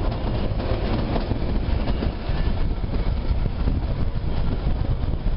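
Kalka–Shimla narrow-gauge toy train running, heard from inside a carriage: a steady rumble and rattle of the coaches on the track.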